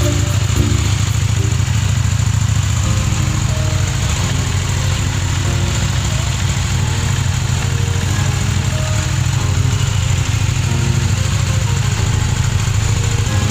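Motorcycle engine idling steadily, with background music playing over it.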